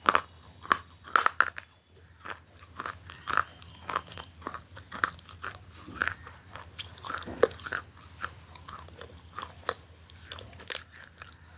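Crunchy food being bitten and chewed, a run of sharp crunches at irregular intervals, the loudest in the first two seconds, over a faint steady low hum.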